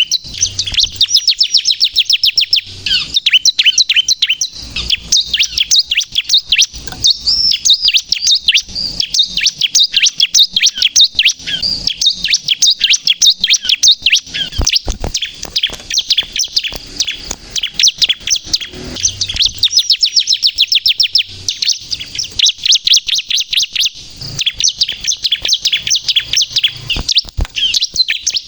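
Bar-winged prinia (ciblek) singing in long, very rapid runs of high, sharp chirping notes, many notes a second, almost without a pause.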